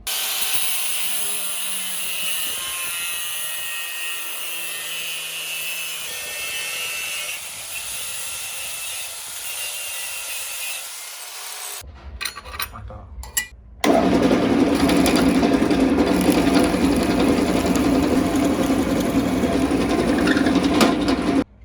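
Workshop power tool running steadily for about twelve seconds, then stopping, with a few scattered knocks. A louder, lower-pitched power tool run starts about two seconds later and cuts off suddenly near the end.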